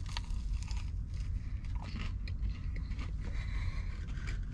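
Biting into a deep-fried pancake puppy and chewing it close to the microphone: irregular soft crunches and small mouth clicks over a steady low hum.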